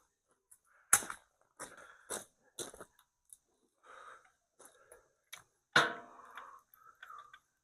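A string of sharp knocks and clatters from tools and parts being handled, the loudest about a second in and just before six seconds in, with softer rustling between. No drill is running.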